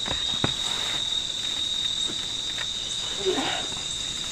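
Crickets trilling in one steady, unbroken high-pitched tone. Two light knocks just after the start, and a brief murmur of a voice about three seconds in.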